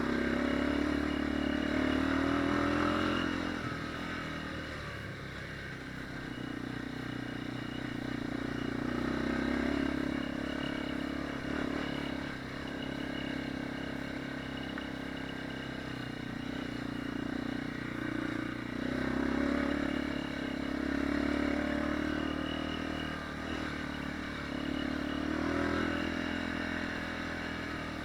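Enduro dirt bike engine running under way, its revs rising and falling every few seconds as the throttle is worked.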